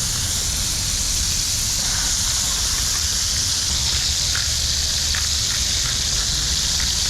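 Frog legs sizzling in a hot pan: a steady frying hiss with a few faint pops, over a low rumble.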